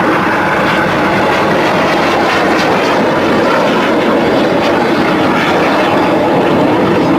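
Red Arrows BAE Hawk T1 jets flying the display, their jet engines making a loud, steady noise.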